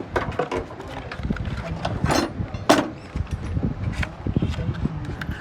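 Irregular metallic knocks and clanks of hand tools at work on the car, about a dozen, the loudest a little under three seconds in, over a steady low rumble.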